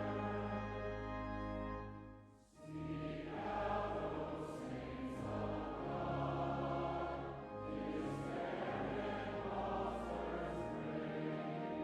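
Many voices singing a hymn together over a sustained low accompaniment. There is a brief break between phrases about two and a half seconds in.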